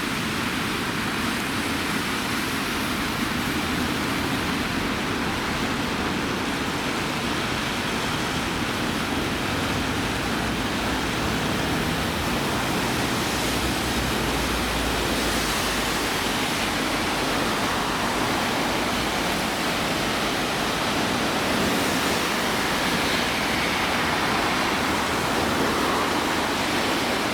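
Torrential rain falling steadily: a dense, even hiss.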